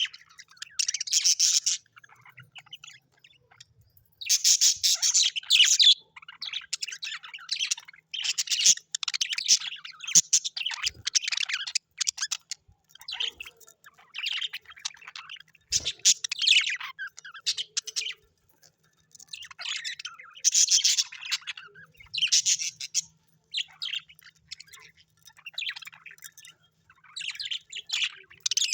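Birds chirping in repeated high-pitched bursts of a second or two, with short pauses between them.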